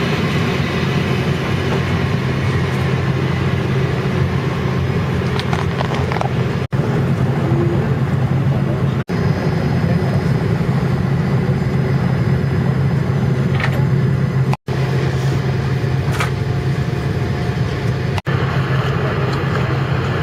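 Steady hum of an airliner's cabin air system with the engines not yet started, heard from inside the cabin. The sound drops out abruptly for an instant four times.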